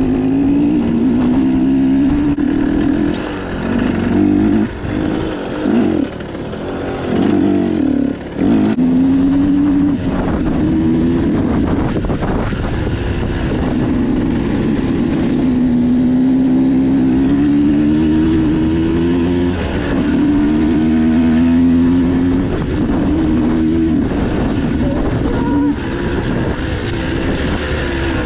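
Dirt bike engine revving as it is ridden, its pitch climbing and falling back again and again as the throttle opens and the gears are shifted by foot. In the first third the throttle is snapped shut several times, with quick dips in loudness.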